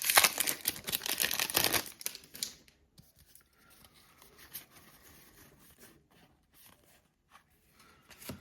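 A plastic trading-card pack wrapper crinkling and tearing for about two and a half seconds, then only faint, soft handling noises.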